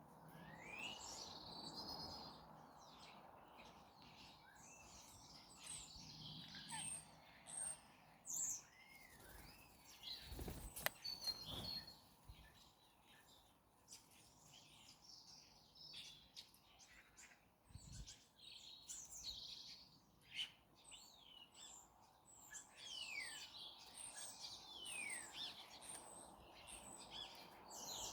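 Faint garden birds chirping and calling, with many short notes and some sweeping, falling whistles. There are a couple of low knocks, about ten seconds and eighteen seconds in.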